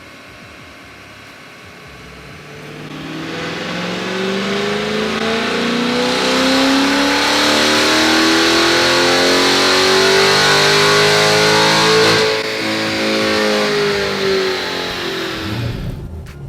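C8 Corvette's V8 exhaust building up from a faint hum into a loud run, the engine note rising in pitch, holding, then falling away and fading near the end.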